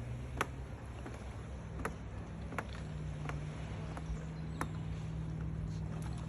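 Footsteps on a hard path during a walk, sharp single steps under a steady low hum.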